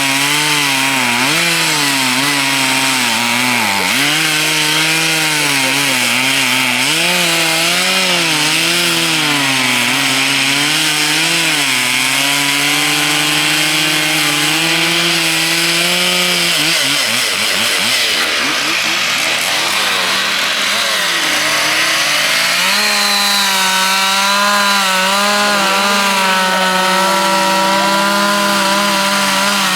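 Petrol two-stroke chainsaws carving into wooden logs, their engines revving up and down as the chains bite and ease off. About two-thirds of the way in the pitch drops and wavers, then a saw holds a steady high rev.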